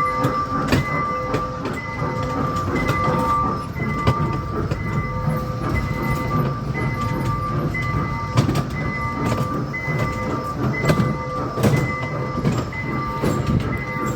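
A small ride-on mall train running, with a low rumble and frequent rattling clicks and knocks from its cars. Through it, steady electronic tones at a few fixed pitches repeat in short dashes.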